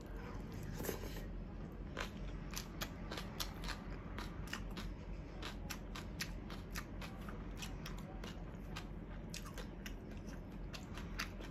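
Chewing a mouthful of crunchy green papaya salad (som tam): a run of irregular, crisp crunches, a few each second.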